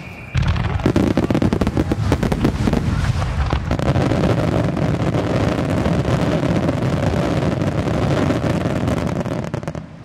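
Finale volley of aerial fireworks: many shells bursting in quick succession, in dense overlapping bangs. It starts suddenly about a third of a second in and dies away near the end.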